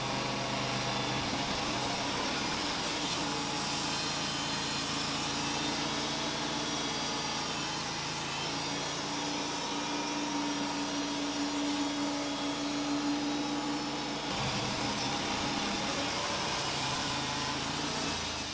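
Wood-Mizer LT35 bandsaw mill running with its blade sawing through a Douglas fir log: a steady engine hum under a harsh, even cutting noise, which shifts a little about fourteen seconds in and cuts off abruptly at the very end. The blade is worn, borderline on sharpness, but still cutting well.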